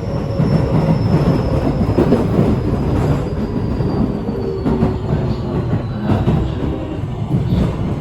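Keio 8000-series electric train slowing for a station stop: its motor tones drop steadily in pitch over the rumble of the wheels on the rails, with a few clicks at the rail joints.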